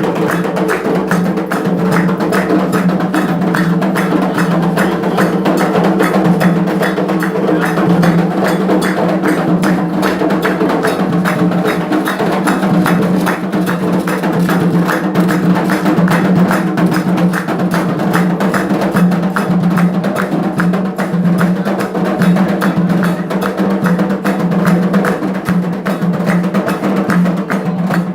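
Candomblé percussion: atabaque hand drums with a struck bell playing a fast, dense, unbroken rhythm.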